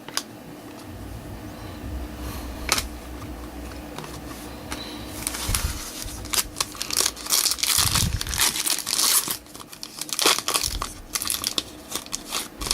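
Foil wrapper of a trading card pack crinkling as it is torn open and handled, with a dense run of crackles from about five to ten seconds in and scattered crackles after.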